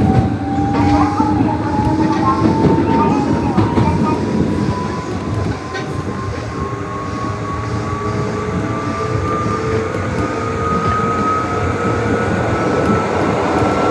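Nishitetsu 600 series electric train accelerating, its motor whine rising steadily in pitch over the running and rail noise as it gathers speed.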